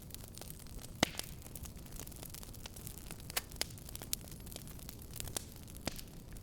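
Wood fire crackling in a fireplace: irregular sharp pops and snaps, the loudest about a second in, over a steady low noise of the burning.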